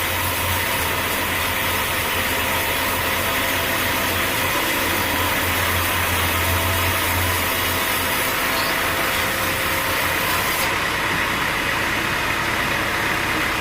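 An engine running steadily at a constant speed, with a low rumble that swells and fades. The high hiss drops away about eleven seconds in.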